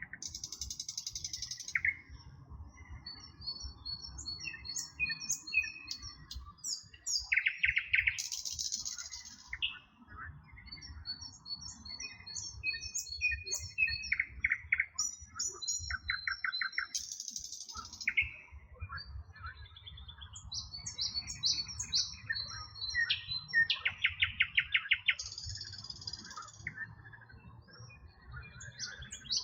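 Several songbirds singing and calling together, with overlapping short chirps and whistles and, every several seconds, a fast buzzy trill. A faint low rumble runs underneath.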